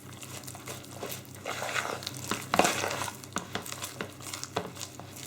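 Spoon stirring a thick, wet vegetable-and-flour dough in a mixing bowl: irregular scrapes and clicks of the spoon against the bowl as the mixture comes together.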